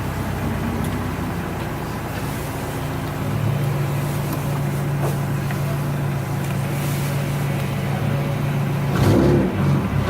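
Turbocharged Subaru WRX STi flat-four engine running at steady revs, heard from inside the car, with a short louder burst about nine seconds in.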